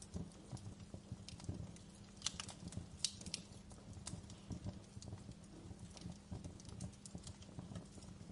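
Wood fire crackling in a fireplace: irregular pops and snaps over a faint steady low hum, with the sharpest pops clustered around two to three seconds in.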